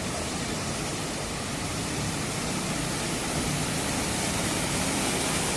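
Heavy rain pouring down: a steady, loud hiss of rainfall and running water.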